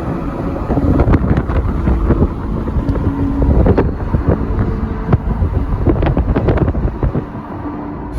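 Vehicle driving on a snow-covered road: a steady rumble with a faint engine tone. Many short knocks and crunches start about a second in and die away near the end.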